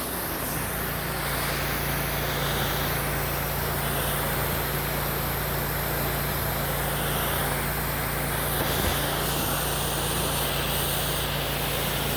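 Pressure washer running with a rinse tip: a steady hiss of water spraying over a continuous motor or pump hum, briefly dipping once near the nine-second mark.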